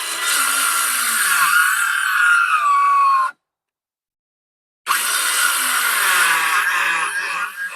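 Circular saw running and cutting through a wooden board, its motor whine sagging in pitch under load, with a hiss of the blade in the wood. It runs in two stretches of about three seconds each, each starting and stopping abruptly.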